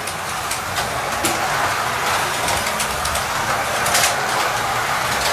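Several Carrera Digital slot cars running flat out around a plastic track: a steady whirr of small electric motors and guide braids, with scattered sharp clicks from track joints and lane changers.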